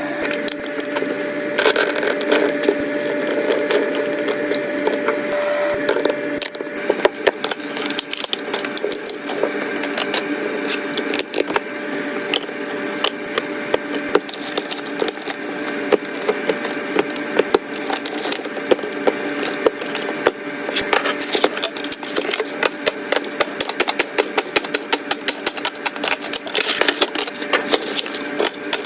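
Restocking a refrigerator: plastic containers, bottles and packaging being handled and set onto the shelves. It makes a continuous clatter of many small knocks and clinks.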